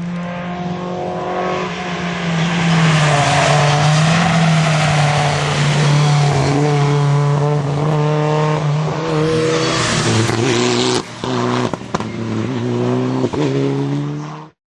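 Mitsubishi Lancer Evolution IX rally car's turbocharged four-cylinder engine at race pace, revving up and down through the gears. Near the end come a few brief sharp lifts, and then the sound cuts off suddenly.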